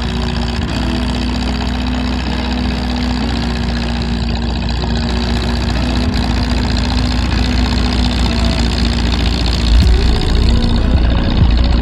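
International Utility 350 tractor engine running steadily, getting a little louder near the end.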